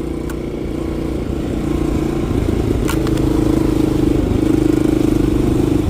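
Yamaha XT350's single-cylinder four-stroke engine running while the motorcycle is ridden, growing a little louder over the first three seconds and then holding steady. Two sharp ticks can be heard, one just after the start and one about halfway through.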